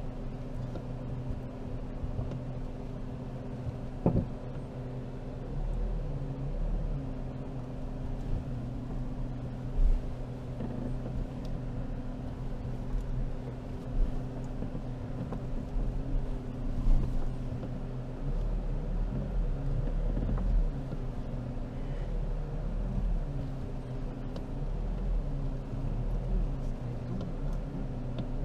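Jeep Compass Trailhawk's turbo-diesel engine running at low revs, heard from inside the cabin as the car crawls over a rutted dirt track. A few short knocks stand out over the steady engine note.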